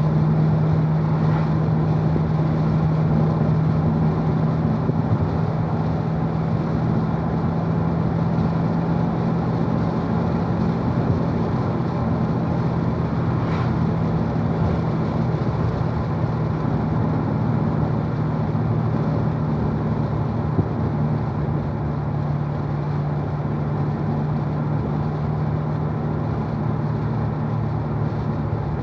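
2016 Corvette Z51's 6.2-litre LT1 V8 cruising on light throttle in fourth gear at a little over 2,000 rpm, a steady low engine drone over road and wind noise, heard from inside the cabin.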